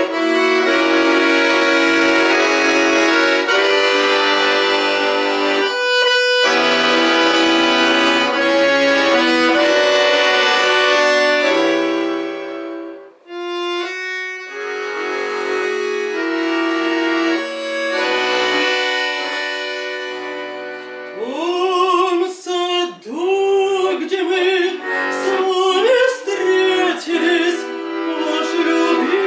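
Accordion playing the introduction to an old Russian romance in sustained chords, with a singer's voice entering about two-thirds of the way through, singing with vibrato over the accordion.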